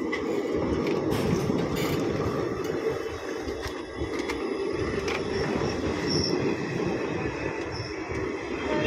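Passenger coaches of an Indian Railways train rolling past close by: a steady rumble of wheels on the rails, with a few sharp clicks along the way.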